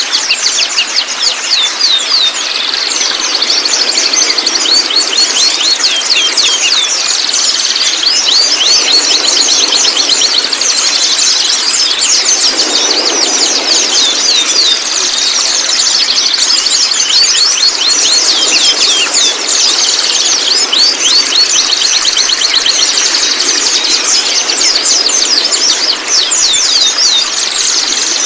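Young white-rumped shama singing and chattering nonstop in fast runs of high, quick sweeping notes.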